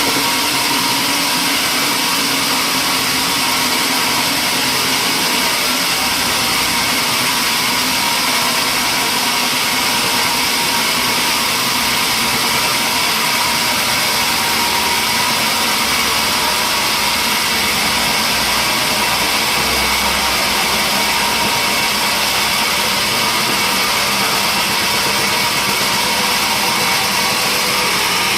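Sawmill machinery running steadily: a loud, unbroken mechanical drone with a few steady tones, no change in pitch or load.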